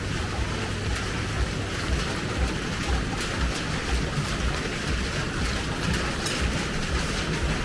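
Steady rain falling on a street: a dense hiss dotted with many small drop taps, over a low rumble.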